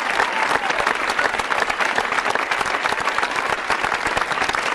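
Large audience applauding steadily, a dense continuous clatter of many hands clapping.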